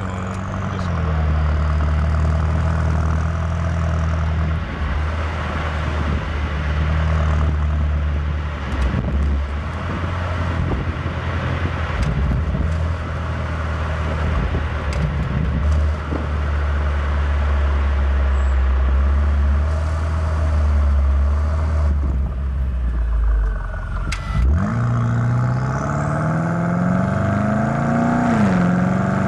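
BMW M8 Competition's twin-turbo V8 running at a steady low drone while driving. About 24 seconds in it dips briefly, then the revs climb as the car accelerates, with a shift near the end.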